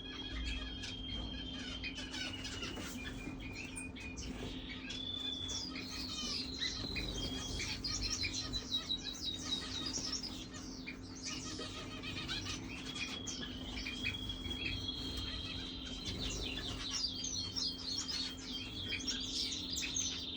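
Small birds chirping busily, with quick high chirps and several long, held high notes, over a steady low hum.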